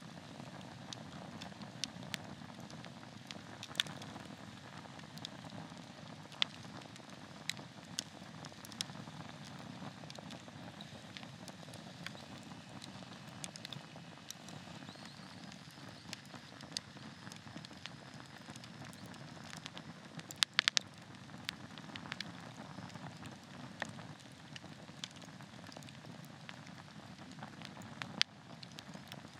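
Wood campfire burning with a steady low hiss and scattered sharp crackles and pops, a quick run of louder pops about two-thirds of the way through.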